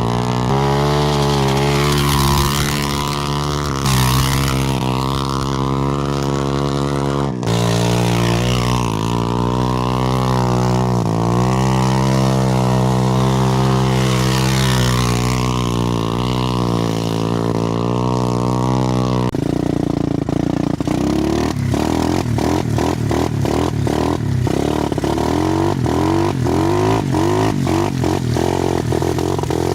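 Dirt bike engine revving up and down as it is ridden through mud, its pitch rising and falling with the throttle, with a sudden break in the note about seven seconds in. About two-thirds through the note turns rough and choppy, with rapid knocks.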